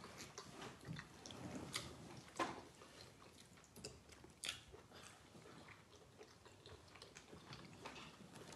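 Faint wet chewing and mouth smacks of people eating fufu with palm nut soup by hand, with a few sharper smacks scattered through.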